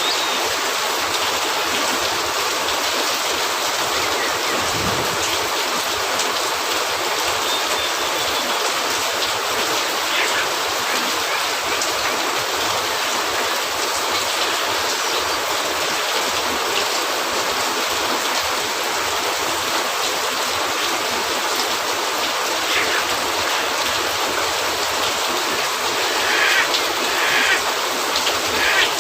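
Steady rain on a cabin roof, a dense even hiss, mixed with the crackle and pop of a wood fire in a fireplace; a small cluster of louder pops comes near the end.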